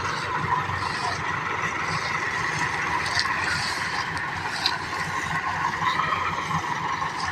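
Massey Ferguson 385 tractor's diesel engine running at a steady speed, a continuous low rumble with some light rattling from the tractor.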